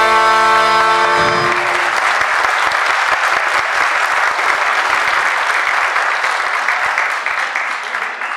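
A symphony orchestra's final chord, led by trumpets and trombones, is held and cut off about a second in, and audience applause follows, thinning out near the end.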